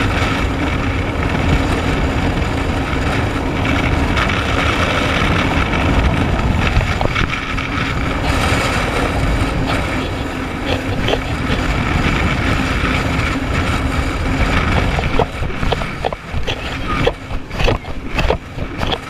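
Jet ski engine running steadily at speed, with wind on the microphone. In the last few seconds the sound turns choppy, with sharp knocks and dips in loudness.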